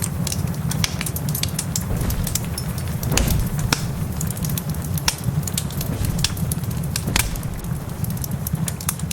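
Wood fire crackling in a fireplace: frequent sharp pops and snaps over a steady low rumble, with two louder pops about three and seven seconds in.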